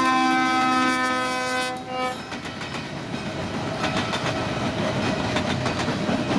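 Train horn held on a steady note, stopping about two seconds in, then a train running past on the rails with a rumble and repeated wheel clicks over the rail joints.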